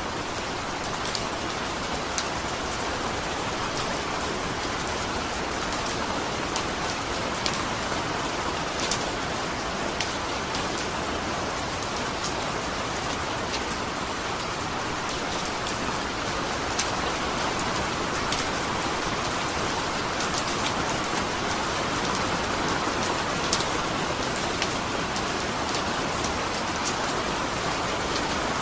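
Steady rainfall: a continuous hiss of rain with scattered individual drops ticking sharply on a surface.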